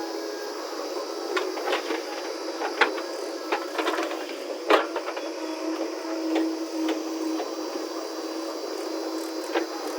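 A steady machine running, with irregular clicks and knocks over it. The sharpest knock comes about halfway through.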